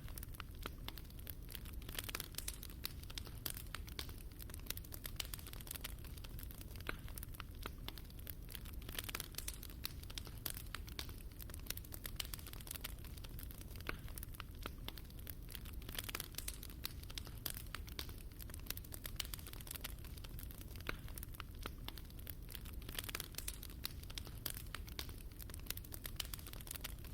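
Fire burning in a fireplace, crackling with a dense, irregular run of small pops and snaps over a low steady rumble.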